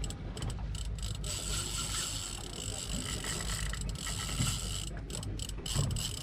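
Daiwa Saltiga 14000 spinning reel working while a hooked fish is fought: its gears and drag make a mechanical whirring and clicking. From about a second and a half in there is a thin, steady high whine, all over a low steady rumble.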